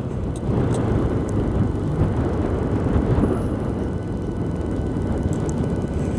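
Wind rushing over the microphone, mixed with the running of a 125cc learner motorcycle being ridden, a steady dense rumble.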